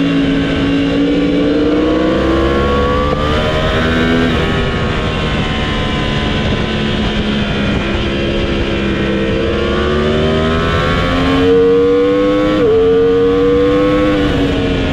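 Motorcycle engine running hard on a race track, its pitch climbing in long rises as it accelerates and dropping sharply at gear changes about four seconds in and again near the end, over a steady rush of wind noise.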